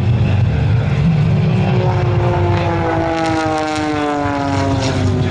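Aerobatic propeller planes' piston engines droning overhead, with one plane's engine note sliding steadily lower in pitch over the second half as it passes by.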